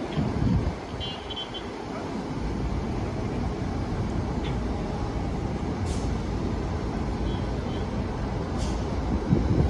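Steady low rumble of heavy vehicles passing, with a few faint brief high squeaks and louder bumps near the start and near the end.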